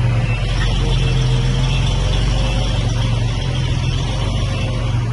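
Komatsu crawler bulldozer's diesel engine working with a steady, loud low drone, over a continuous metallic clatter and rattle from its tracks and running gear.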